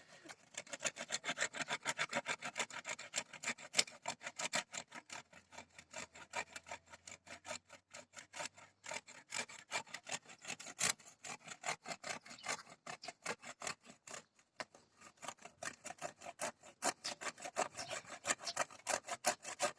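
Hand saw cutting through a wooden tree branch: quick, rhythmic back-and-forth strokes, about three a second, with a brief pause partway through.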